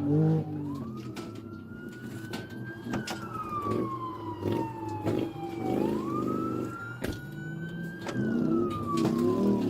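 Police patrol car siren on a slow wail, its tone rising and falling about twice, over the pursuing cruiser's engine.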